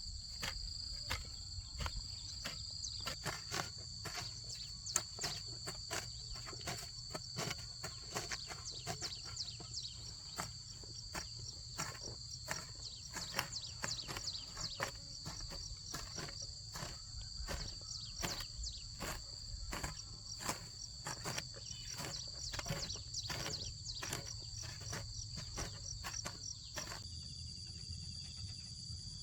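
Insects droning in two steady high-pitched tones, with many irregular clicks and knocks over them. The sound changes abruptly near the end.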